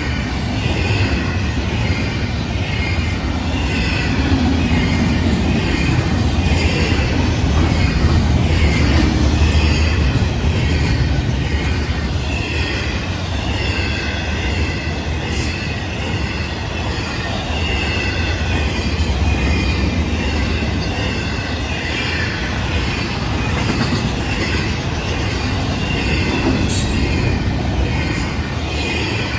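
Intermodal freight cars (double-stack container cars and trailer flatcars) rolling past close by: a steady rumble of steel wheels on the rails, with a wavering, high-pitched squeal of the wheels over it. Two sharp ticks come about halfway through and near the end.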